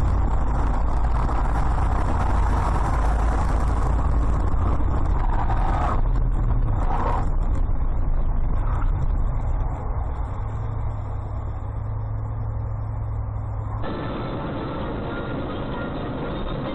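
Motor vehicle driving on the road: a steady low engine and road rumble. Late on it changes abruptly to a quieter, slightly different rumble of the same kind.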